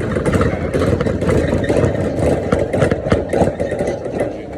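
Car running, with steady engine and road noise and scattered clattering knocks.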